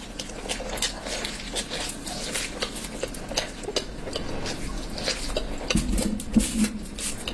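Close-up mukbang eating sounds: chewing and mouth clicks with light clinks against a plate, as curry is eaten.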